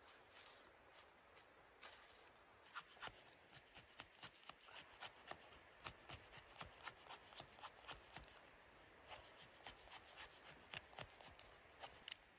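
Faint, irregular light clicks and scrapes, several a second, starting about two seconds in and stopping just before the end.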